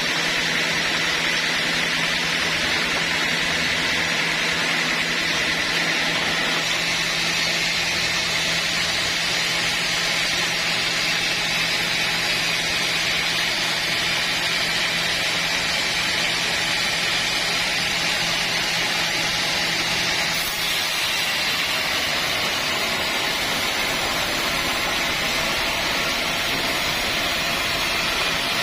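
Sawmill running steadily, a loud even noise with a low hum underneath. About twenty seconds in, the hum drops away and the sound turns brighter and hissier.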